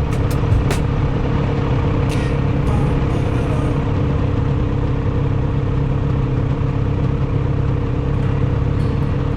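1972 Yamaha DT-1F's 250 cc two-stroke single-cylinder engine running steadily at an even pitch, with a few sharp clicks in the first second.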